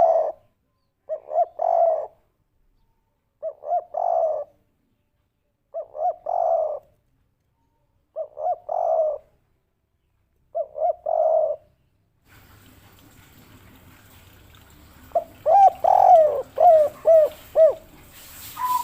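Spotted dove (tekukur) cooing in the three-part 'kuk 3' style, one phrase roughly every two seconds, five times over, played back as a lure call. About halfway through, a hiss comes in, and after it a quicker run of coos follows.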